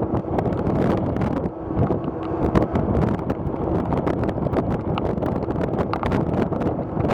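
Wind buffeting the microphone, a rough continuous rumble with frequent crackles, over a faint steady low hum.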